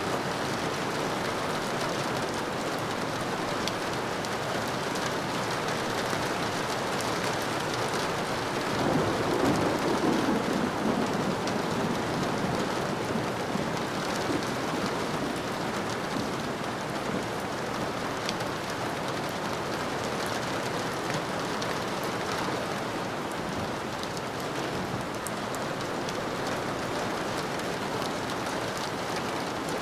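Steady rain falling. About nine seconds in, a low rumble swells for a few seconds and is the loudest part, then fades back into the rain.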